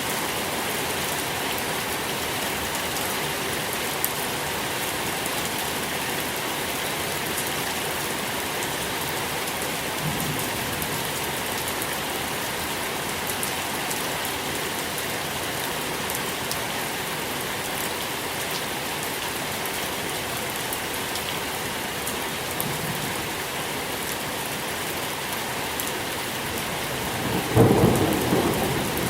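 Steady rain falling with an even hiss, and a low rumble of thunder swelling up briefly near the end.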